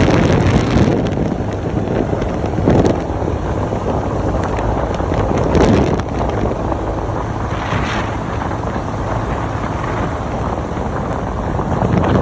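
Wind buffeting the microphone on a moving motorcycle, a dense steady rumble that swells in gusts several times.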